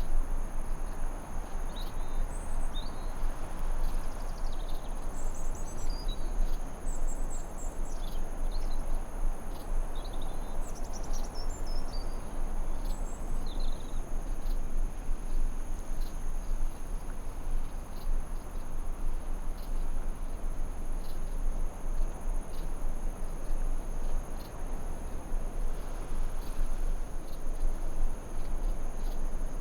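Forest ambience: a steady hiss underneath, a constant high-pitched insect drone like crickets, and birds chirping in short, scattered calls through the first half.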